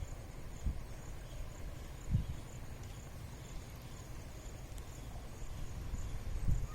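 Faint insect chirping, a high pulse repeating about two or three times a second, over a steady low rumble of wind or handling noise with a few soft thumps.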